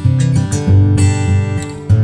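Background music: acoustic guitar strumming and picking, in a Spanish/flamenco-like style.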